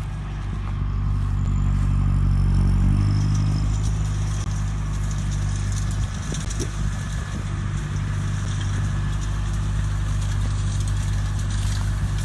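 Tractor engine running under load as a tractor and big baler work past, loudest about three seconds in, then steady. Wind is on the microphone.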